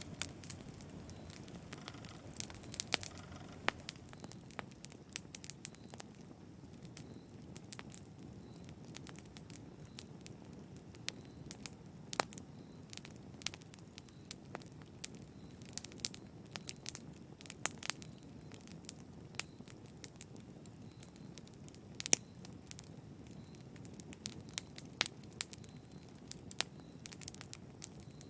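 Fireplace fire crackling, with irregular sharp pops and snaps over a steady low rush of burning flames.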